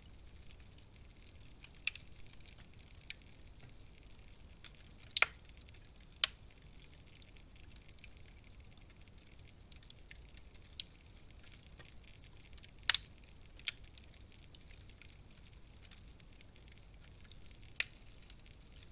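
Wood fire crackling in a fireplace: irregular sharp pops and snaps over a faint steady hiss, a few of them much louder than the rest.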